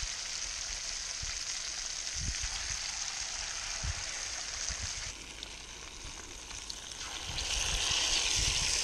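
Battered barramundi pieces frying in hot oil in a pan, a steady sizzle. It dips about five seconds in and grows louder near the end as another battered piece goes into the oil.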